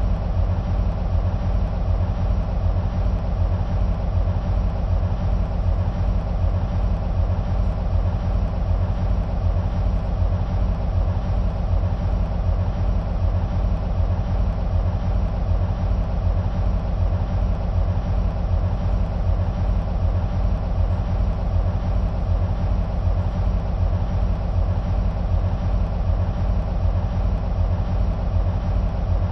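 EMD SW1500 switcher locomotives' 12-cylinder 645 diesel engines idling steadily with an even low throb.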